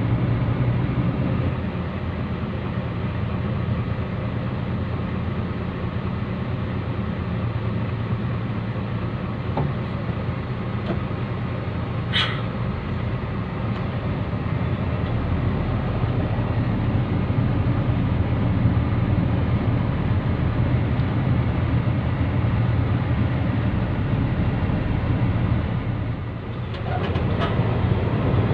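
Heavy diesel haul-truck engine running with a steady low drone. There is one sharp click about twelve seconds in and a short dip in level near the end.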